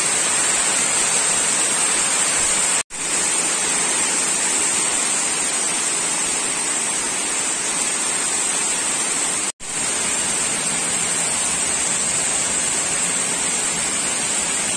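Heavy rain pouring onto a lawn and into standing floodwater: a steady, dense hiss. The sound cuts out for an instant twice, about three seconds in and again about nine and a half seconds in.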